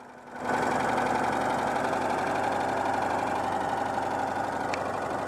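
Citroën 2CV's air-cooled flat-twin engine idling steadily on a little choke while still cold, coming in about half a second in and then holding an even beat.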